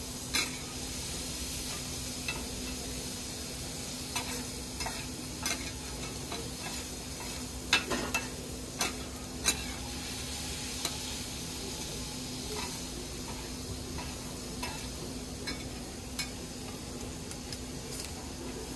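Offal (horumon) sizzling as a big batch is stir-fried all at once, with scattered clicks and scrapes of the cooking utensil, loudest about eight to nine and a half seconds in.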